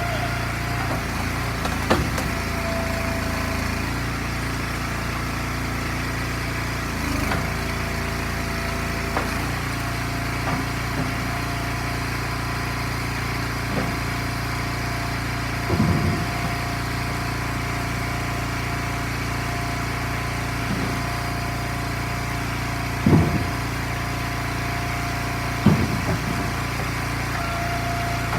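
Gas engine of an Eastonmade log splitter running steadily, with occasional short knocks and thumps; two louder knocks come near the end.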